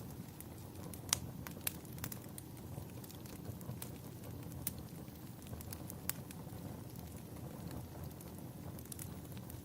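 Wood fire in a fireplace crackling, with scattered sharp pops over a steady low rumble; the loudest pops come about a second in and shortly after.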